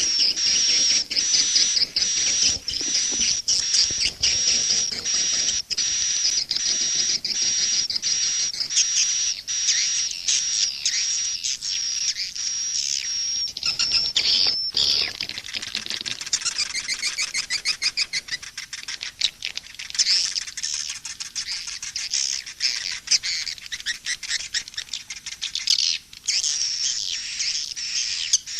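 Edible-nest swiftlet calls played as a swiftlet-house lure track: dense, high chirping and twittering. For the first half a rapid, regular run of sharp clicks goes with it, about two or three a second; after that the sound turns into looser, warbling trills.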